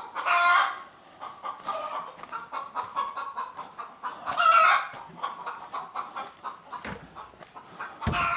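Hens clucking in a chicken coop, with two louder drawn-out calls, one about half a second in and another about four and a half seconds in. A couple of dull knocks come near the end.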